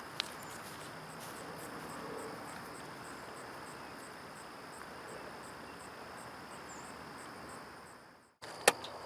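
Insect chirping steadily, a high-pitched chirp repeated about two to three times a second, over a steady background hiss. The sound fades out about eight seconds in, and a footstep-like click follows shortly after.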